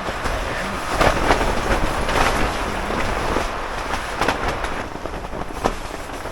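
Strong wind gusting against a Gazelle T4 hub tent: a continuous rushing rumble that swells about a second in, with several sharp snaps and cracks of the tent fabric.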